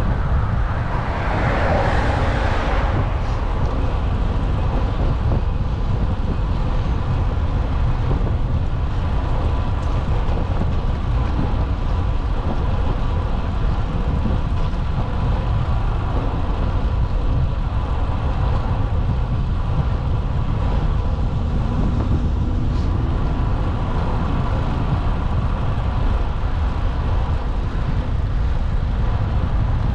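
Steady road and traffic noise with heavy wind rumble on the microphone while cycling; a vehicle passes in the first few seconds.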